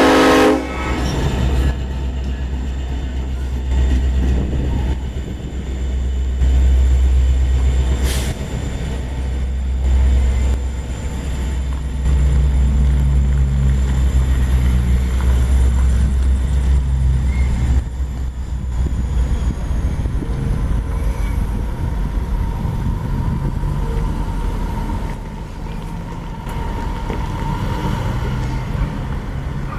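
KCSM diesel-electric freight train passing close by: a heavy, steady low rumble of locomotives and rolling cars. A thin, high, steady wheel squeal is held for the first two-thirds. A horn blast cuts off about half a second in.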